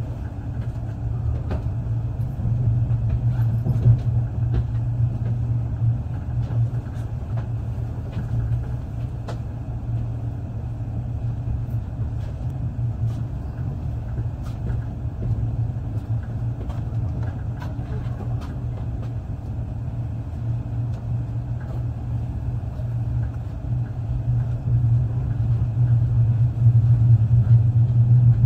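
Running noise of a passenger train heard from inside the carriage: a steady low rumble with a few faint scattered clicks, getting louder near the end.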